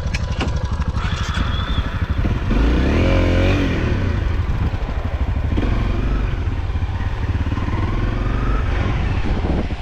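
Off-road motorcycle engine running, with a rev that rises and falls about three seconds in.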